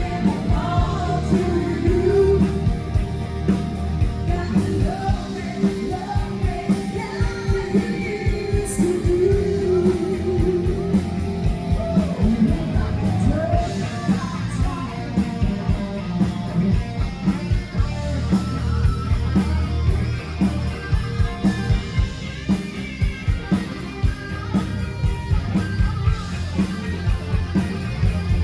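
Live rock band playing loud with a singer, a steady drum beat, guitar and heavy bass.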